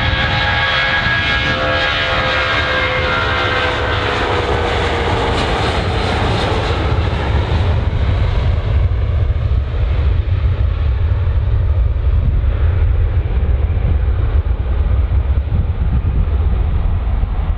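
Jet airliner's engines passing close by: a loud whine that slides down in pitch as the aircraft goes past, over a deep rumble. After about eight seconds the whine fades and the low rumble carries on.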